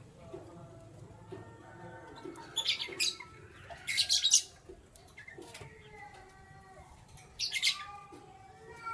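Canaries chirping: three bursts of sharp, high chirps, about two and a half, four and seven and a half seconds in, over softer, quieter calls.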